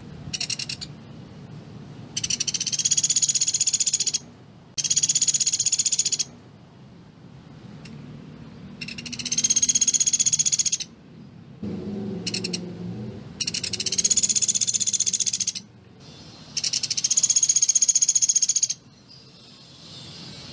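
Sunda pygmy woodpecker (pelatuk beras) calling in rapid trills of closely spaced notes. Five long trills of about two seconds each and two brief ones, with short pauses between.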